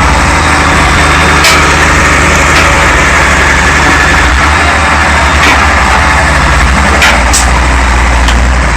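Vehicle engine running steadily with a low rumble and road noise, with several brief sharp clicks or knocks.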